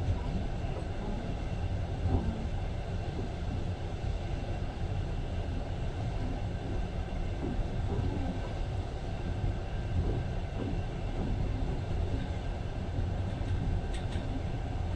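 Passenger train running along the track, a steady low rumble heard from on board the carriage, with a few faint clicks near the end.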